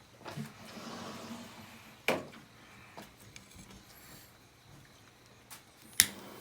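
Two sharp knocks, the second and louder near the end, with a few lighter clicks and some soft rustling between them.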